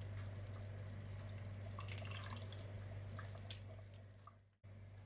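Faint drips and small splashes of liquid in a pot of sambar, over a steady low hum. The sound cuts out suddenly near the end.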